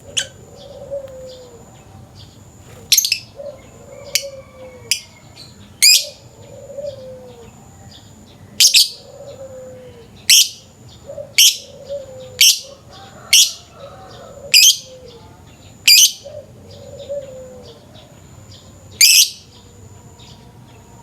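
Lovebird giving about a dozen short, shrill calls at irregular gaps. A softer, low falling coo repeats under them about every second and a half and stops near the end.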